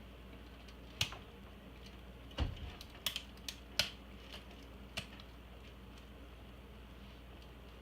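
Scattered sharp clicks and light knocks of small parts and tools being handled during a computer teardown, about seven in all over a few seconds, one with a dull thump about two and a half seconds in.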